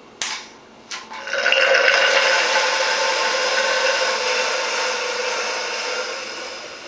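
Two clicks, then a vacuum pump running steadily and easing off near the end, sucking excess oil out of a motorcycle fork tube to bring the oil level down to 140 mm below the top of the tube.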